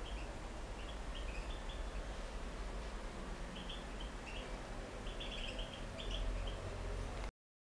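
Small caged birds chirping in short, high bursts in a few clusters over a steady low background noise; all sound cuts off abruptly near the end.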